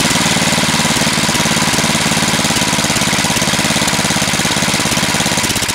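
Gas snowblower engine running steadily up close, with an even, rapid firing beat.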